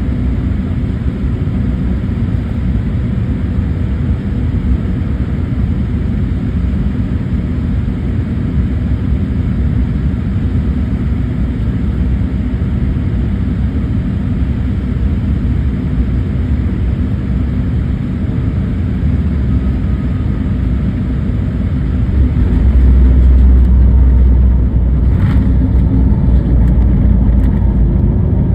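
Airliner cabin noise on landing: a steady low rumble of engines and airflow that swells louder about three-quarters of the way through, with a single sharp knock a couple of seconds later.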